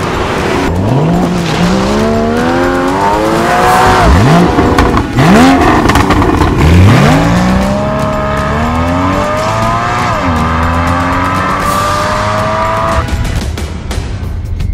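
Porsche Boxster engine accelerating hard through the gears: each gear is a rising rev that drops sharply at the upshift, several times over. The engine sound cuts off about a second before the end.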